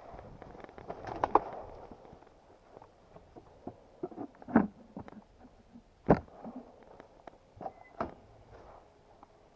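Irregular knocks, clunks and rustling from a dirt bike being handled after a fall, with the engine stopped. A few sharp knocks stand out, about a second in, near the middle and a little after.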